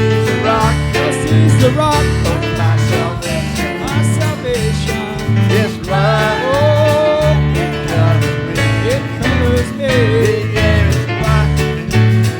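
Church band playing a country-gospel instrumental passage: guitar over a steady bass line, with a lead melody that slides between notes above.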